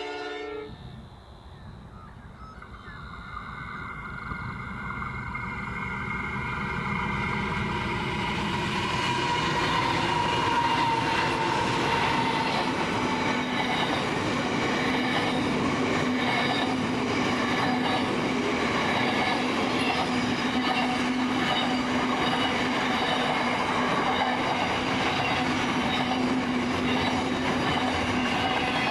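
A short blast of a locomotive horn cuts off in the first second. Then two NR-class diesel-electric locomotives approach and grow steadily louder over about ten seconds, with a whine that drops slightly in pitch as they pass. After that comes the steady rumble and clatter of a long container freight train rolling by.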